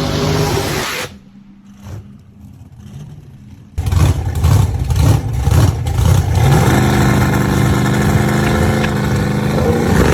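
Muscle car engines, loud. One stops abruptly about a second in. After a quieter gap an engine starts revving in sharp, uneven blips at about four seconds, then settles into a steady, loud run.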